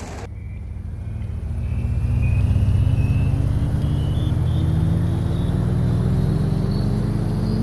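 Car engine heard from inside the cabin, its note climbing slowly and steadily as the car accelerates along the road, with a faint whine rising alongside it.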